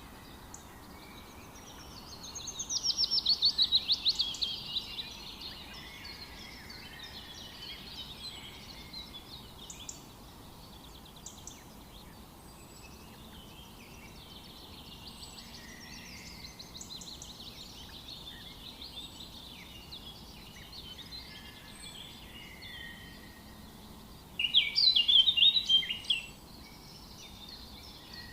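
Several songbirds singing in a forest chorus. A loud, rapid trill comes about two seconds in and a loud burst of song near the end, with quieter chirps and calls throughout over a faint steady hiss.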